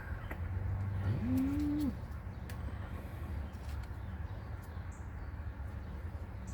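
A man's short, low strained groan about a second in, rising and then dropping in pitch, as he contorts under a truck's dashboard. Faint scattered clicks and taps of handling come before and after it.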